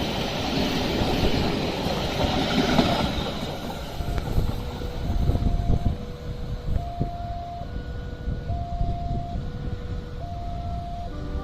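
A train runs past with a broad rumble and rattle that fades over the first few seconds. From about four seconds in, a level-crossing warning signal sounds: two electronic tones, one high and one low, alternate steadily, each held for just under a second, over a low rumble.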